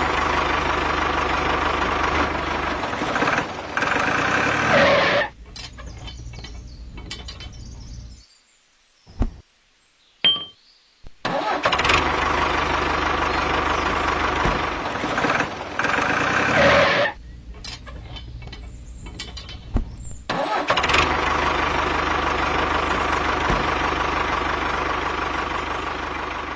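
An engine runs loudly in three stretches of about five to six seconds each, dropping to a lower murmur with scattered clicks in between.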